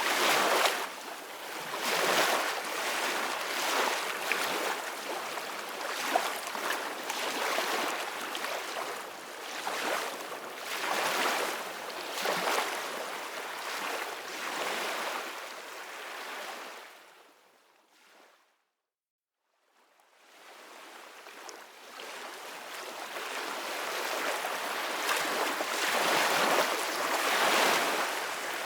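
Ocean waves washing onto a beach, the surf swelling and falling every second or two. About two-thirds of the way through it fades out to brief silence, then fades back in.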